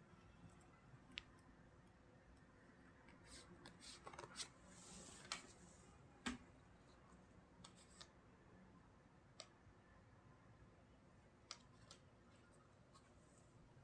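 Faint, scattered clicks and taps with a brief rustle about four to five seconds in, typical of tarot cards being handled and laid down.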